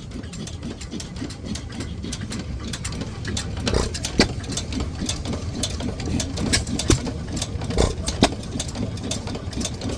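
Antique hit-and-miss gas engines running close by: a steady low rumble with irregular sharp pops and clicks.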